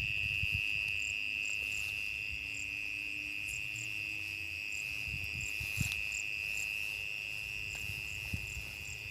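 Crickets trilling in a steady, high, unbroken chorus, with shorter, higher chirps coming and going over it. There are a few soft knocks.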